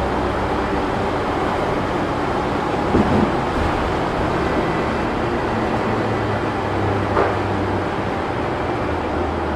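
Inside a city bus on the move: steady engine and road noise with a low engine hum that rises a little about six seconds in, and two brief knocks or rattles, about three and seven seconds in.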